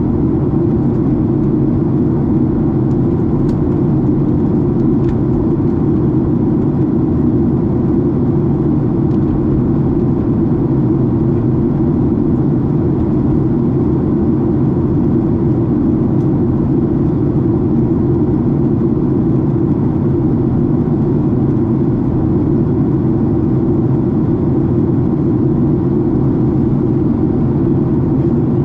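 Steady cabin noise inside a twin-engine Boeing 767 airliner: an even, unbroken low roar of engines and airflow.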